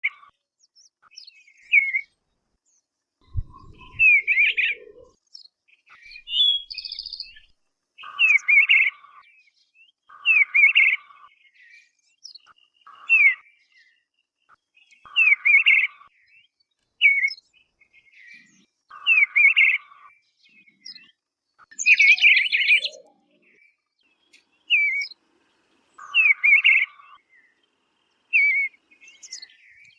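A bird singing: short whistled song phrases repeated about every two seconds, each mixing quick gliding notes with a lower buzzy part. A brief low thump comes about three seconds in.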